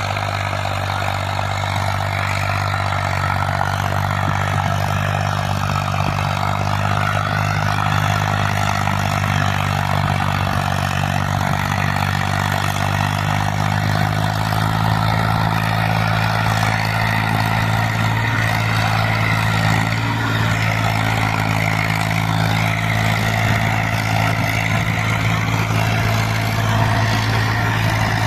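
Tractor diesel engine running steadily, its pitch shifting slightly about halfway through.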